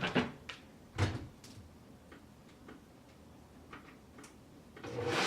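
A few knocks and light clicks of handling a blender. Near the end the blender's motor starts up and quickly builds to a steady run.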